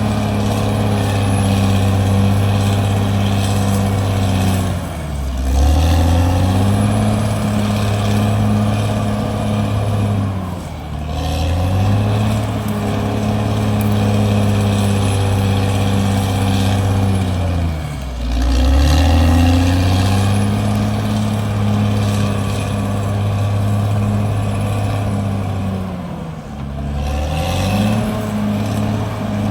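CAT D6R bulldozer's diesel engine running hard, a steady heavy hum whose pitch sags and climbs back four times, roughly every seven seconds.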